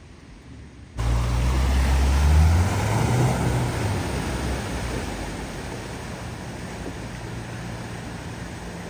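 A vehicle driving through floodwater: the low engine hum and water rushing and splashing start suddenly about a second in, are loudest around two to three seconds in, then ease into a steady wash of water.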